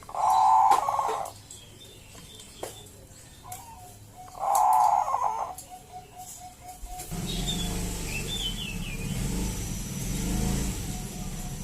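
Zebra dove (Bangkok perkutut) cooing: two loud rolling coos a few seconds apart, the second trailing off into a string of quick soft notes. About seven seconds in, a low steady rumble starts, with a brief higher chirp over it.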